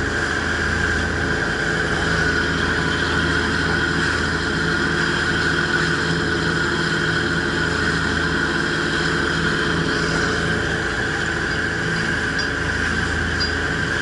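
A small fishing ferry boat's engine running steadily under way. It makes a constant low drone with an even rushing noise over it.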